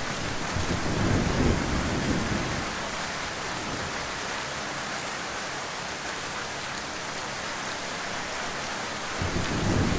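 Heavy rain falling steadily. A low rumble swells under it in the first couple of seconds and again near the end.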